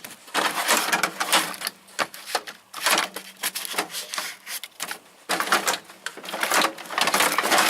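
Screwdrivers and other hand tools clattering as they are rummaged through in a tool box drawer: a rapid run of clicks and knocks, with a short pause about five seconds in.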